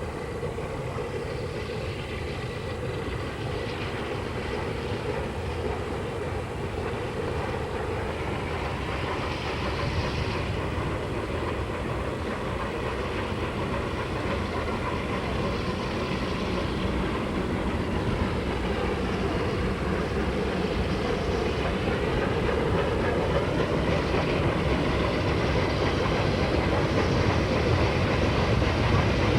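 Oregon Pacific & Eastern No. 19, a Baldwin 2-8-2 steam locomotive, running with its passenger train, growing steadily louder as it approaches.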